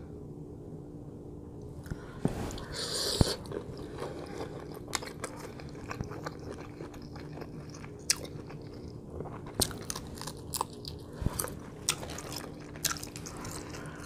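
Close-up mouth sounds of a person biting and chewing boiled shrimp: scattered sharp, wet clicks and crunches, with a louder crunch about three seconds in.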